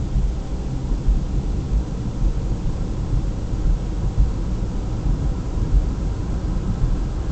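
Wind buffeting the microphone: a steady, gusty low rumble with no distinct events.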